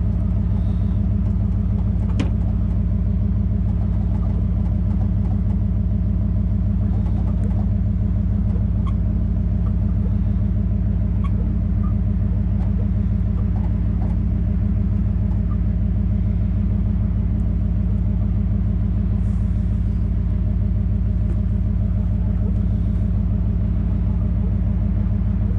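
Pickup truck engine idling steadily, an even low running sound that does not change.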